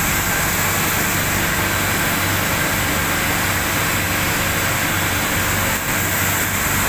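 Steady running noise of a pyrolysis furnace, a constant rushing sound with a low hum underneath.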